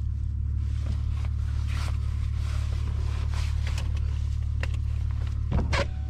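BMW E46 inline-six engine running steadily during normal driving, heard as a constant low drone with intake sound from a K&N cold-air intake. Scattered brief clicks and scrapes sit over it, with a louder knock near the end.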